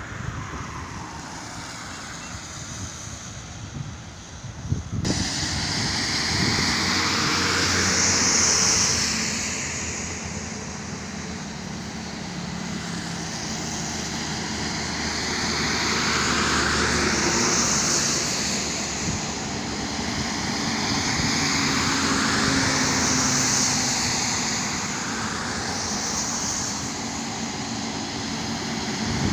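Truck engine and road noise while driving on the highway, a steady rumble that gets louder and fuller about five seconds in, then swells and fades every few seconds.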